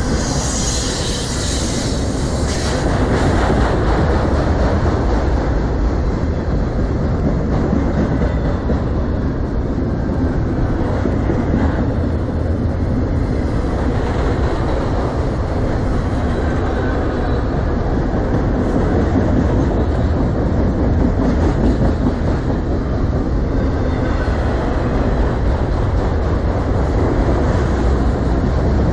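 Freight train of autorack cars rolling past at close range: steady rumble and clatter of steel wheels on the rails, with a brief high-pitched hiss in the first two seconds.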